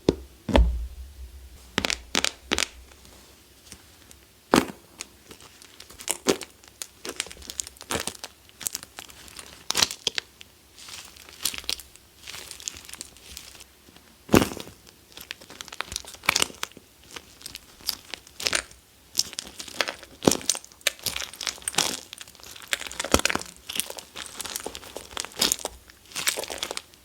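Used wax being squeezed and pressed by hand, giving irregular crackling and crunching with sharper cracks every few seconds.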